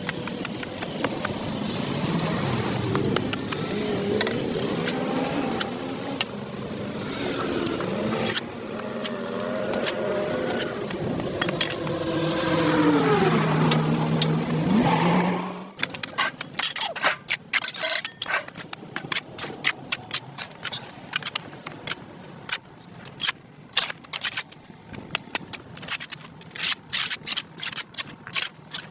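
Traffic noise with a vehicle engine whose pitch falls and settles into a steady low hum. About halfway through it cuts off abruptly, giving way to quicker, irregular scraping and clicking strokes on pavement.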